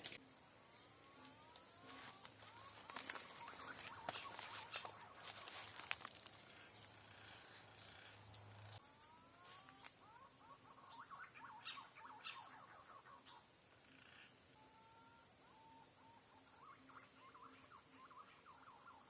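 Birds calling in flurries of short rising whistles, many overlapping at times, over a steady high-pitched insect drone.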